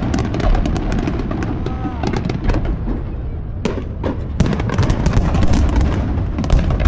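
Aerial fireworks bursting: deep booms under dense, rapid crackling.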